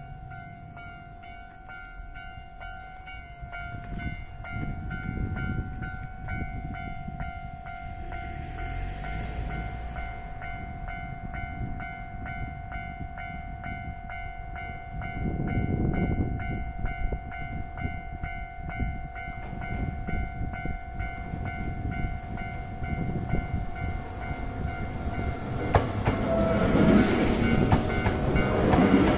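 Japanese level-crossing warning bell ringing steadily. Under it, the low rumble of a Hankyu electric train grows, swells once partway through and is loudest near the end as the train passes.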